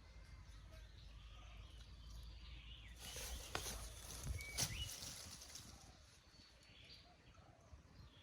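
Quiet outdoor ambience with a low rumble, a few sharp clicks around the middle, and one short high bird chirp.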